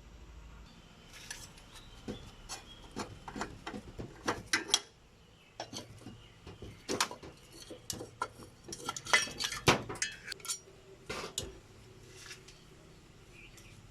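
Hard metal parts and hand tools clinking and tapping against each other in a series of irregular sharp clicks, loudest twice, about a third of the way in and again past the middle.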